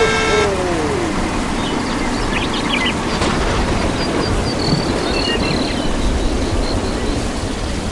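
Steady rushing noise with a few faint bird chirps.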